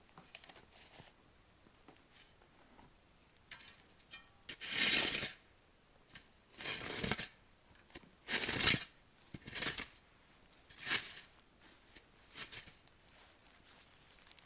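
A series of about six rustling, scraping noises, each about half a second long and a second or two apart.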